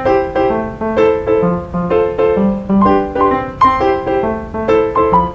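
Piano music: a quick melody of short notes over lower bass notes.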